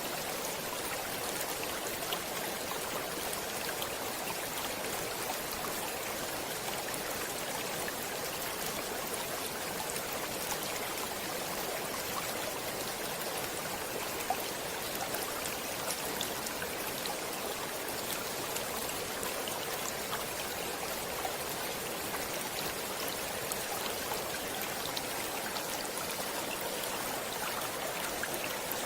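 Water in a stream flowing steadily, a constant rushing splash with small droplet-like ticks scattered through it.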